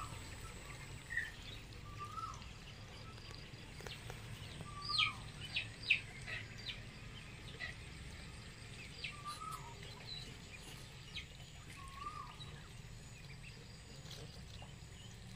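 Birds calling: a short up-and-down note repeated every two to three seconds, with a quick run of sharper, higher chirps about five seconds in, over a steady low background hum.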